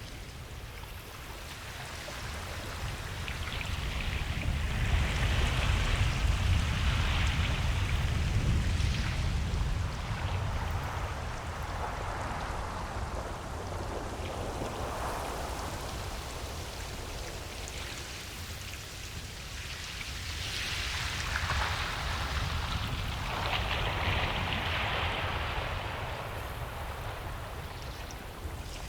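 Ocean waves breaking on a beach, surf rushing in and washing back, over a steady low rumble. Two waves swell up and fade, the first from about four seconds in and the second near twenty seconds.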